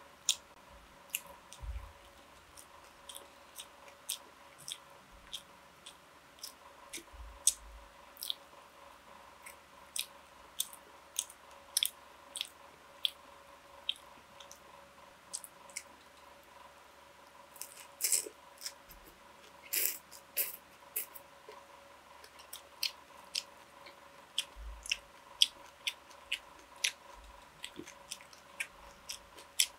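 A person chewing and biting food close to the microphone: a run of short wet mouth clicks and smacks, with two louder crunchy bursts about two-thirds of the way through.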